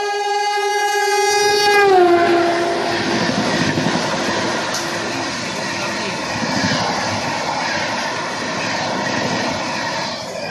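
A locomotive horn sounds a held chord. Its pitch drops about two seconds in as the engine passes, then the horn stops. The train then runs past at speed, its coaches rumbling and its wheels clattering over the rail joints.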